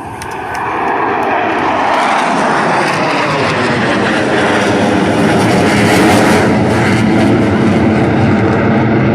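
Blue Angels F/A-18 Super Hornet jets passing, the jet engine noise building over the first second and then staying loud, its pitch sliding down as they go by.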